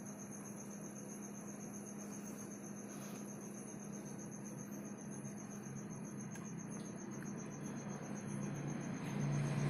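A cricket trilling steadily, one high, fast-pulsing note, over a faint low hum; near the end a low rumble swells louder.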